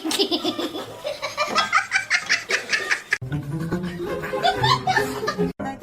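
People laughing in quick, repeated bursts over background music, broken off by an abrupt cut about three seconds in, after which voices continue.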